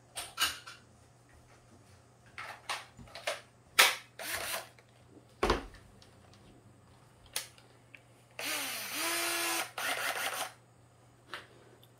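Several sharp knocks and clicks of handling wood and a tool, then a cordless screw gun running in two short bursts about eight seconds in, its motor pitch rising and then holding on the first.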